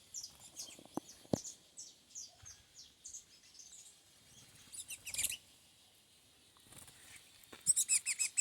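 Small songbirds chirping: many short, high chirps, a louder cluster about five seconds in and a quick run of chirps near the end.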